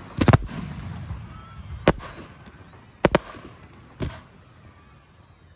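4-inch aerial firework shells going off: a loud cluster of sharp bangs just after the start, then single bangs about a second apart, the last one softer and duller, with a rumble trailing after them.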